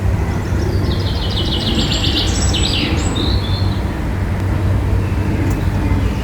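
A bird sings a rapid trill of high repeated notes, about a second in and lasting roughly two seconds, then gives a short single note. Under it runs a steady low rumble.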